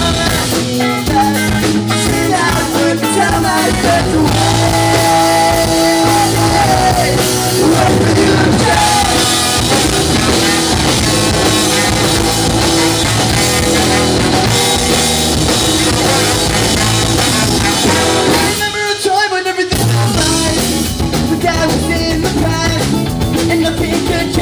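Live ska-punk band playing loudly: drum kit, guitars and bass. The low instruments cut out for about a second near 19 s, then the band comes back in.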